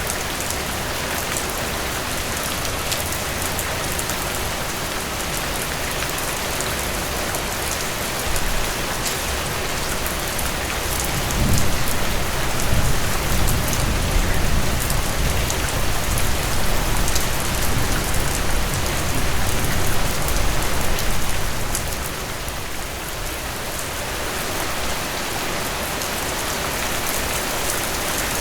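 Steady heavy rain falling on surfaces, an even hiss of drops with fine patter. About eleven seconds in, a low rumble swells under it for around ten seconds and then fades.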